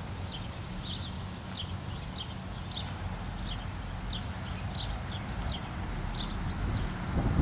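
Small birds chirping in quick, scattered short notes, over a steady low rumble like wind on the microphone that grows louder near the end.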